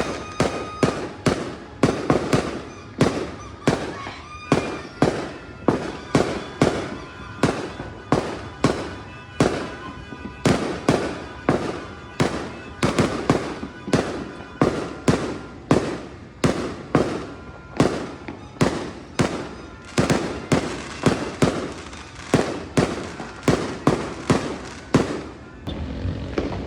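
Fireworks going off in a rapid, even run of bangs, about two a second, each with a short echoing tail.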